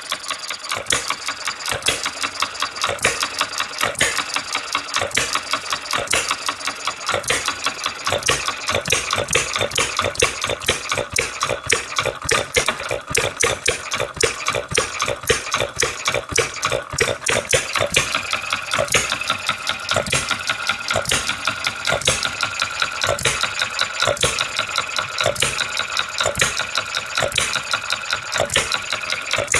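Self-built model hit-and-miss engine running, a continuous rapid clatter of evenly spaced ticks and knocks that holds steady throughout.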